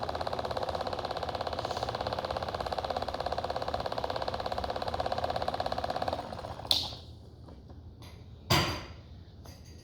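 Toy washing machine's small electric motor running with a fast, even buzzing rattle, which stops about six seconds in. A sharp click follows, then a louder knock near the end.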